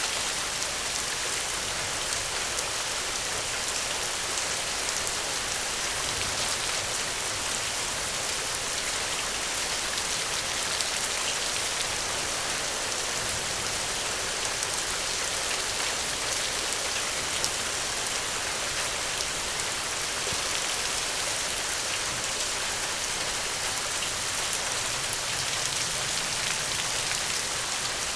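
Gentle rain falling steadily: an even hiss with fine drop patter, unchanging throughout.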